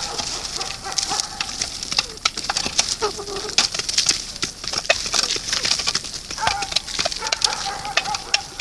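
Birds at a feeding spot: a busy high chirping haze, many sharp clicks, and a thin held call early on and again near the end.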